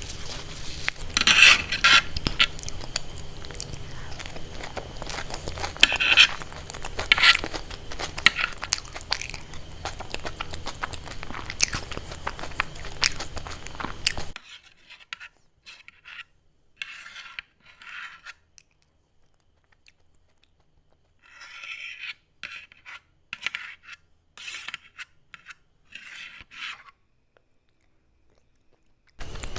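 Close-miked eating sounds: crisp food being bitten and chewed, with sharp crackling crunches. About halfway through the background hum cuts off abruptly and the crunching continues in separate short bursts with quiet gaps between them.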